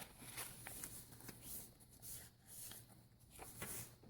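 Faint rustling and light ticks of paper pages and cards being handled and turned in a handmade junk journal.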